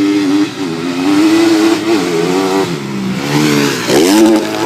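Honda CRF250R motocross bike's single-cylinder four-stroke engine running under throttle, its pitch rising and falling as the rider opens and closes the throttle, with a sharp drop and quick climb back up near the end.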